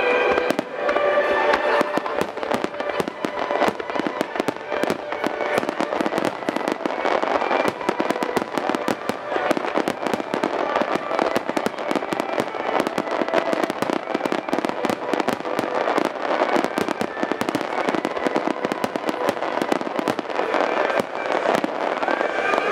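Aerial fireworks shells bursting in quick succession: a dense, unbroken run of cracks and pops from crackling stars.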